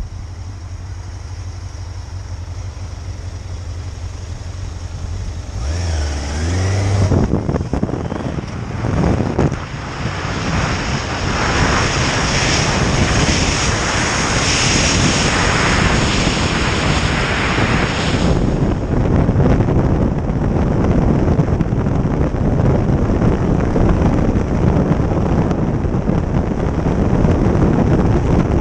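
Motorcycle engine running at a steady low note, then a change about six seconds in as it pulls away, after which loud wind and road noise fill the sound and stay to the end.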